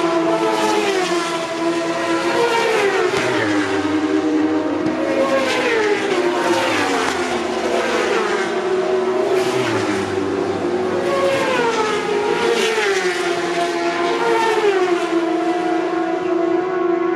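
Superbike racing motorcycles passing one after another at high speed, their engine pitch falling each time, about half a dozen times, with a steady hum underneath.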